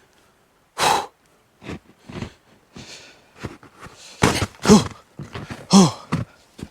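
Boots crunching and cracking on thin creek ice, a string of short sharp noises, mixed with hard breaths and a couple of grunts of effort.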